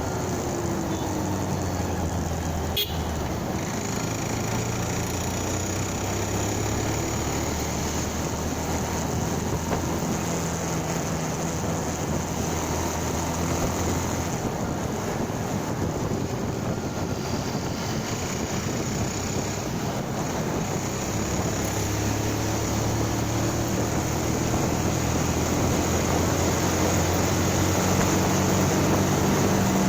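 Motorcycle engine running under way, with road and wind noise; the engine note shifts in pitch several times and grows louder toward the end. A single sharp click about three seconds in.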